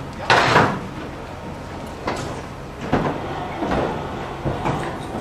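Roofing work on the roof overhead: a series of short, noisy scraping and knocking sounds, the loudest about half a second in, followed by four fainter ones.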